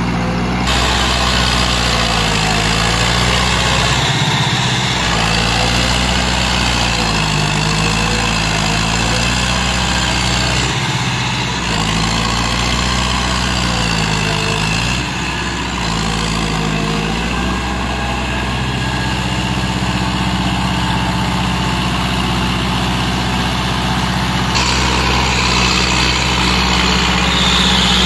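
Tractor diesel engine running steadily, its pitch dipping and recovering several times under load changes during the first half, then holding steady.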